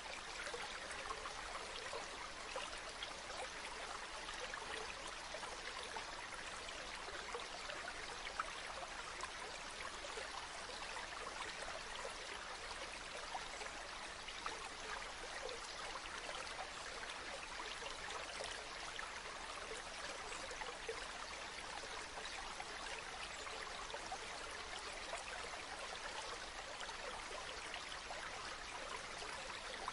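A river flowing over rocks: a steady babbling and trickling of running water, with no change in level.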